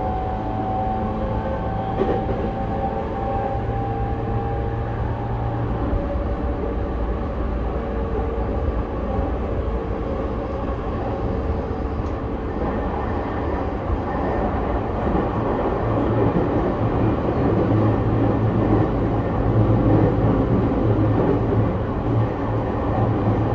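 Running noise inside an E231-1000 series commuter train's motor car with Hitachi IGBT-VVVF control. Steady whining tones from the traction equipment fade out over the first dozen seconds. Rolling wheel-and-rail noise with a low hum then grows louder in the second half.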